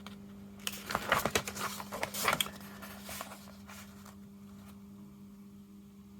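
Small hard objects being handled on a bench: a quick run of clicks and rustles in the first two and a half seconds, then a few lighter knocks, over a steady low hum.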